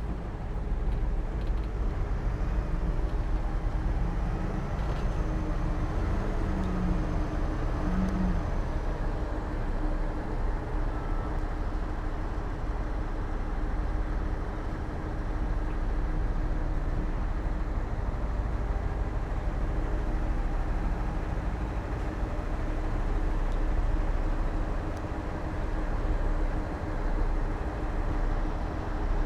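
Heavy earthmoving machine's diesel engine running steadily, a continuous low drone.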